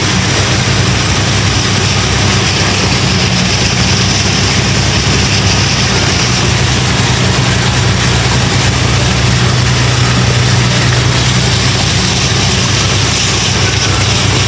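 A tour boat's engine running steadily under way, a constant low drone under a loud, even rushing noise from wind and water.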